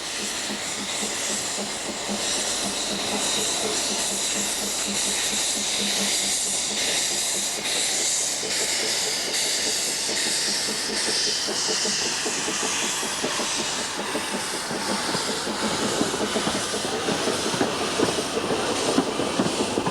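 Small Hunslet narrow-gauge steam locomotive pulling away with its train: steam hissing under the regular beat of its exhaust, with wheel clatter from the carriages growing louder near the end.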